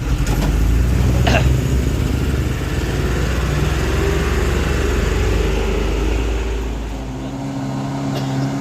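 Large diesel truck engine running loud with a deep, low rumble. About a second in there is a brief sharp sound, and about seven seconds in the engine note changes to a steadier, higher hum.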